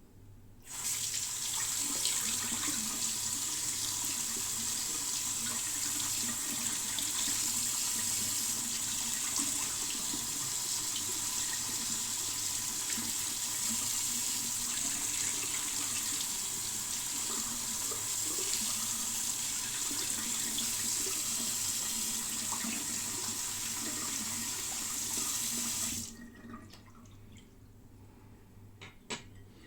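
Tap water running steadily into a sink, turned on about a second in and shut off sharply near the end, followed by a few faint clicks.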